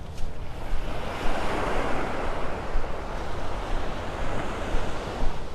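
Small surf breaking and washing up the beach, a rush of water that swells about a second in and eases off near the end. Wind rumbles on the microphone underneath.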